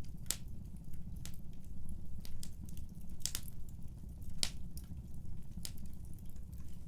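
Wood fire burning in a fireplace: a steady low rumble of flames with irregular sharp crackles and pops, three louder snaps among many smaller ticks.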